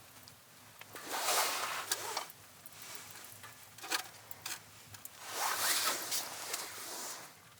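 A zipper pulled in two long strokes, the second about four seconds after the first, with a few small clicks between them.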